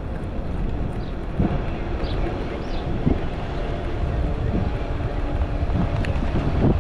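Wind rushing over the microphone with rolling rumble from an electric bicycle ridden along a park path, steady throughout.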